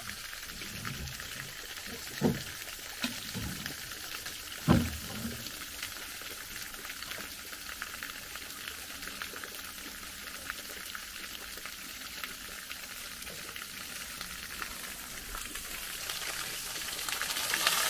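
Steady trickling of a small forest stream, with a couple of soft thumps about two and five seconds in. The water sound swells louder near the end.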